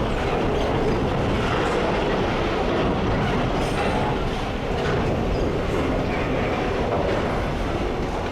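Freight train wagons rolling past on the rails, a steady, unbroken rumble of wheels on track.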